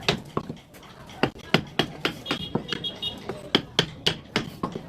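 A run of irregular sharp knocks and taps, about two to three a second.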